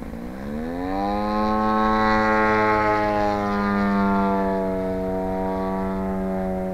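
Large gas engine of a 40% scale Sbach model airplane in flight, its pitch climbing over the first second or so as the throttle is opened, then holding steady.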